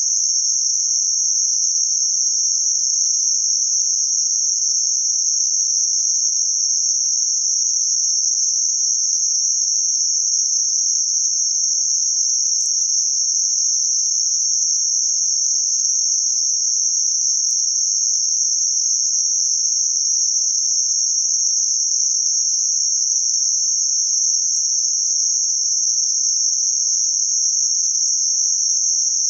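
Synthetic noise filtered to a narrow band around 6 kHz, a steady high-pitched hiss like a continuous cricket chirr, unchanging in level.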